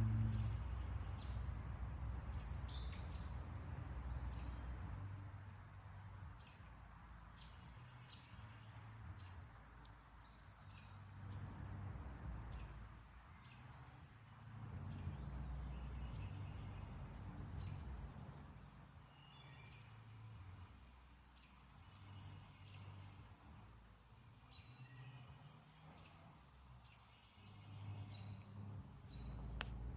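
Crickets trilling steadily, with short high chirps repeating every second or so, over a low hum that swells and fades. A low tone dies away over the first few seconds.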